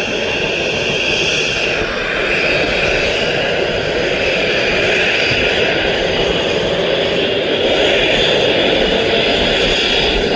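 Boeing 737 jet engines running, a steady loud noise with a high whine, growing slightly louder about eight seconds in.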